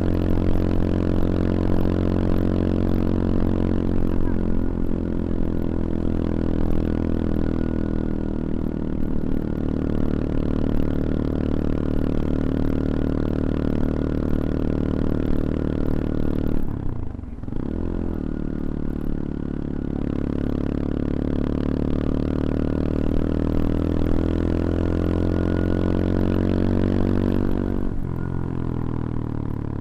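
CFMoto Papio XO-1's small single-cylinder four-stroke engine running under way, with a brief drop and recovery in engine note about 17 seconds in, typical of a gear change. The note then climbs slowly as the bike pulls, and falls near the end as the throttle is eased off.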